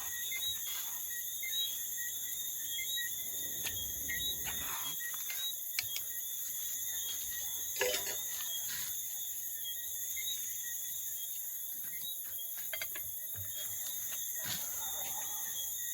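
Crickets chirring steadily in a constant high-pitched chorus, with a few light clicks and knocks scattered through.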